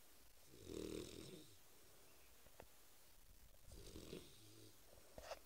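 A Boerboel puppy snoring in its sleep: two slow snores about three seconds apart, with a faint click near the end.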